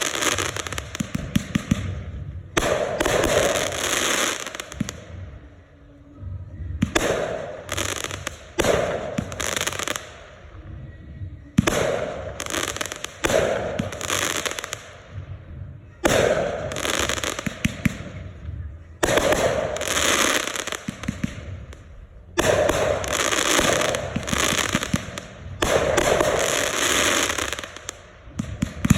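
Consumer aerial fireworks bursting overhead one after another, each sharp burst followed by a second or two of dense crackling, a new one every two to four seconds.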